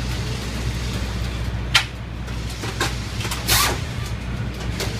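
Crew working on a Top Fuel engine during a teardown: a few sharp metal clanks of tools and parts and a brief hiss over a steady low hum.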